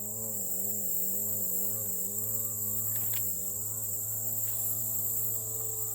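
Insects chirping steadily in a high, continuous band, with the low drone of a distant engine wavering gently in pitch underneath. A few faint clicks.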